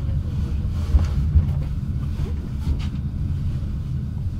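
Steady low rumble of a passenger train carriage rolling slowly out of a station, heard from inside the carriage, with a few faint clicks.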